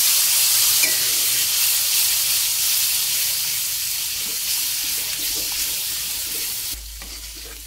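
Wet, freshly ground spice paste sizzling in hot oil in an aluminium wok as it is stirred, the water in the paste boiling off. The loud hiss fades gradually and then drops away near the end.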